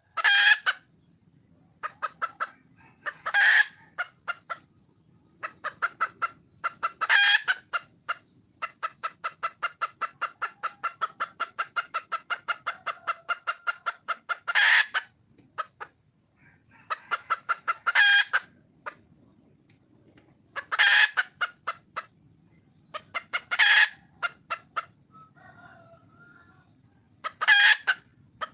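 Wild junglefowl hen calling for a mate: long runs of rapid clucks, about seven a second, broken eight times by a louder, shriller call about half a second long.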